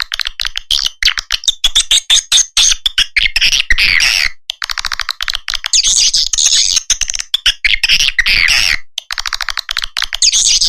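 Swiftlet lure call played back: fast, chattering twitters and buzzy pulse trains of swiftlets, the sound used to draw the birds to nest in a swiftlet house. It breaks off briefly about four seconds in and again near the end.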